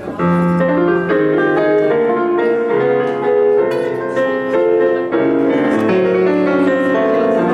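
Live band starting the instrumental intro of a song, led by keyboard chords with a piano sound; the music begins a moment in.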